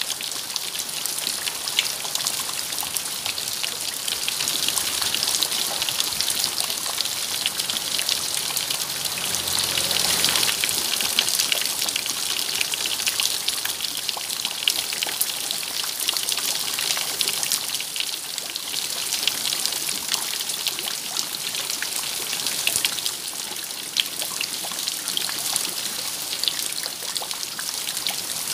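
Steady rain, with countless individual drops landing at an even level throughout.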